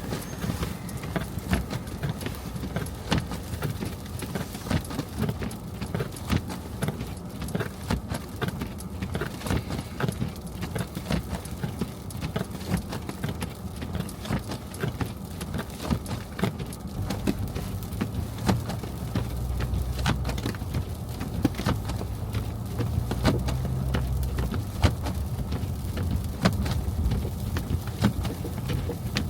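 Car driving on snowy streets: a steady low road rumble with many small irregular clicks and rattles. A low steady hum joins in about two-thirds of the way through.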